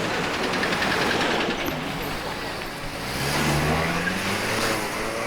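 Road traffic: a motor vehicle's engine running, rising steadily in pitch about three seconds in as it speeds up.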